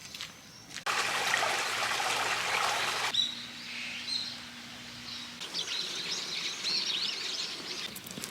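Small birds chirping and twittering, after about two seconds of even rushing noise that cuts off sharply.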